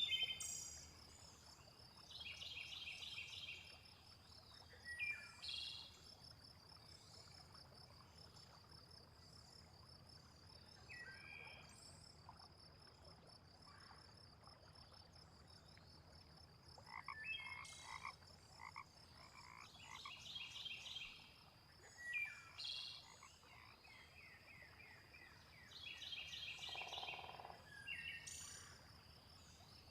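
A chorus of frogs calling in short, rapid pulsed croaks, several voices overlapping and coming on and off. A steady high-pitched trill runs underneath.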